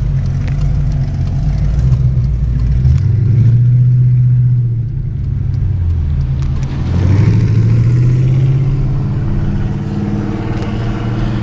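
Car engine running and speeding up twice, its note climbing about three seconds in and again about seven seconds in.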